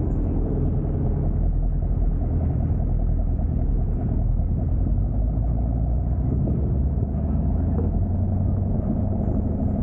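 Car engine running steadily, a continuous low rumble with no change in pitch.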